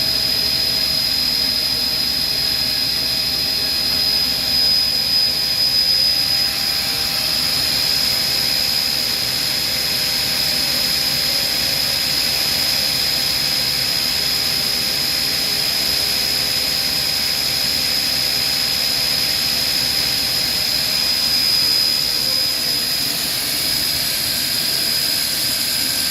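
Spintech RM16 50-taper machine-tool spindle running at a steady high speed: a constant high-pitched whine over a hiss.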